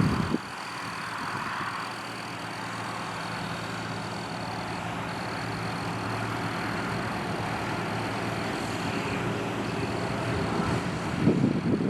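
John Deere 8300 tractor's six-cylinder diesel engine running steadily under load, with brief louder low rumbles at the start and near the end.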